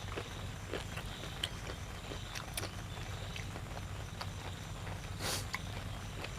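Close-miked eating sounds: irregular wet mouth clicks, smacks and small crunches from chewing cuttlefish and fresh vegetables, with one longer crunching sound about five seconds in, over a steady low hum.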